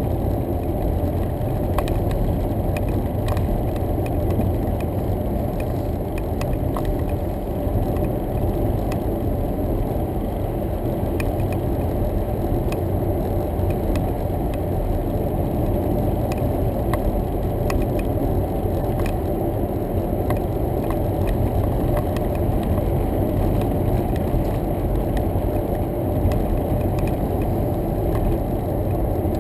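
Road noise inside a moving car: a steady low rumble of tyres and engine, with faint scattered ticks and rattles.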